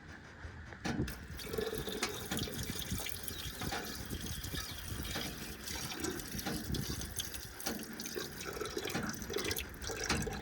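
Irregular splashing and sloshing of water, with many short wet clicks and no steady engine note.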